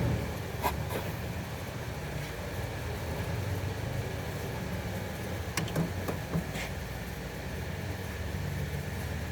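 A steady low mechanical hum, like a running engine, with a few sharp clicks and knocks: one pair about a second in and a small cluster about six seconds in.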